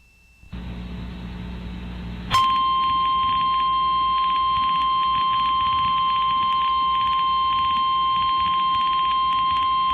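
Emergency Alert System broadcast: a single steady alarm tone begins about two seconds in, the 1050 Hz NOAA Weather Radio warning alarm tone that comes before a tornado warning message. Before it there is a low hum and static on the radio feed.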